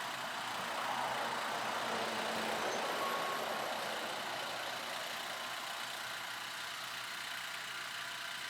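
Steady vehicle engine and traffic noise, a rushing hiss that swells about a second in and eases off again by about four seconds.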